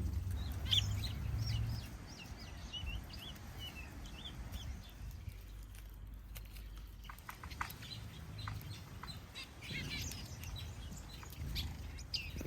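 A mixed flock of small aviary birds, mostly finches, chirping and calling in quick, overlapping short notes, with a low rumble in the first couple of seconds.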